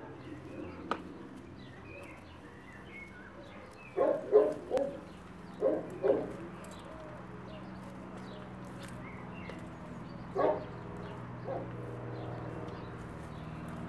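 Pyrenean Mountain dog (Great Pyrenees) barking: a run of about five barks some four seconds in, then another bark near ten seconds and a softer one just after. A steady low hum runs underneath.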